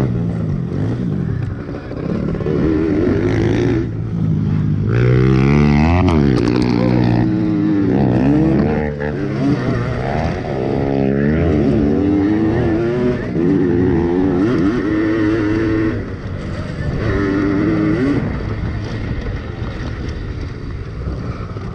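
Yamaha PW80 pit bikes' small two-stroke engines revving up and falling off again and again, the pitch climbing and dropping every second or two, at times with more than one engine heard at once.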